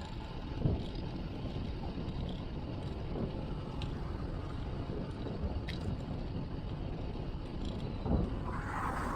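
Wind rushing over an action camera's microphone with tyre and road rumble while riding a road bike. There are low thumps about a second in and again near the end, and a short hiss near the end.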